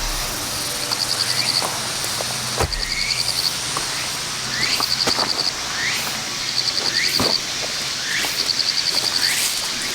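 Outdoor chorus of small calling animals: a high, rapidly pulsed trill about a second long repeating every second and a half or so, with short rising chirps between and a couple of faint knocks.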